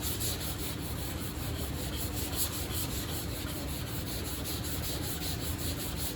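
Sandpaper rubbed by hand over primer surfacer on a car body panel's curved edge, in quick back-and-forth strokes about four to five a second, over the steady hum of a dust-extraction fan.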